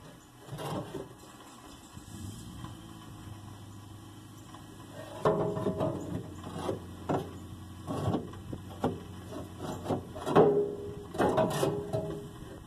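Scattered metal clunks, knocks and scrapes of a steel fuel tank and its fittings being worked into place under a car, some knocks briefly ringing. They come thicker and louder in the second half.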